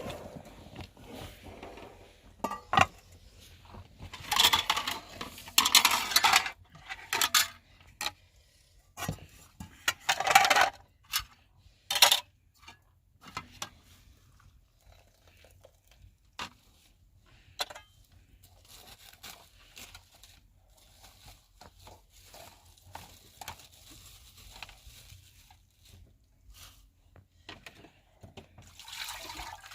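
Intermittent clatter, knocks and rustling as objects are handled, busiest and loudest between about four and seven seconds in and again around ten to twelve seconds, then sparse light ticks.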